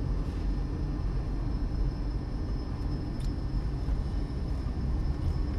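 Steady low rumble of a car driving, road and engine noise heard from inside the cabin, with a faint steady high whine.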